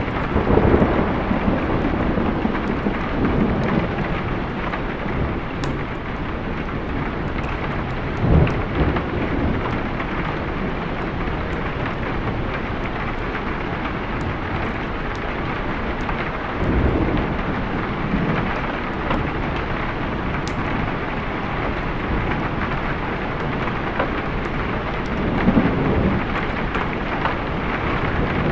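Steady rain with thunder rumbling four times: about a second in, near eight seconds, around seventeen seconds and near the end.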